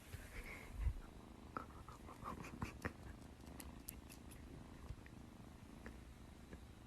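A domestic cat purring faintly, a steady low rumble, with a few faint clicks and a low thump about a second in.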